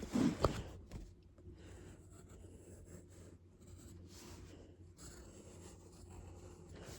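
Pencil drawing on paper: faint, soft scratching strokes, with a brief louder noise at the very start.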